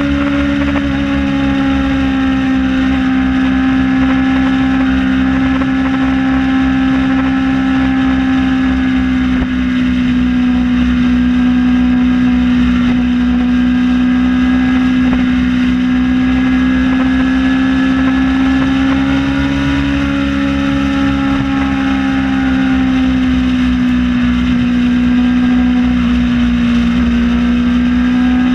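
Kawasaki ZX-6R's inline-four engine running steadily on the move, its pitch holding nearly level with small rises and dips.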